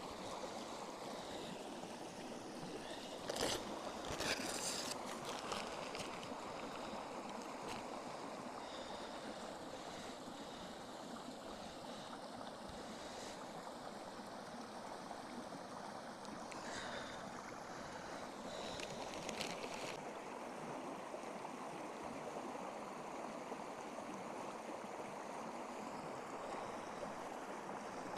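Steady rushing of flowing water, with a few short crackles or snaps about three to five seconds in and again a little past the middle.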